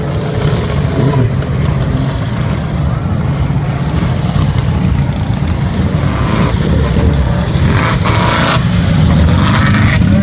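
Motor vehicle engines running, a steady low rumble that grows slightly louder near the end.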